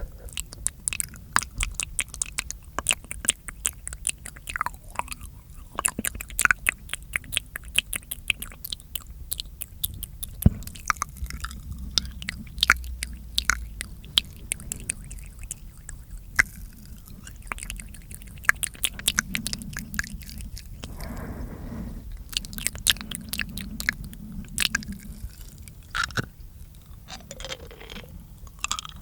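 Close-miked ASMR mouth sounds: quick, irregular wet clicks and smacks of the lips and tongue, in dense runs with short gaps.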